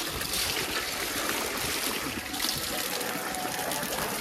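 Water of a mountain stream flowing and splashing, a steady rushing hiss.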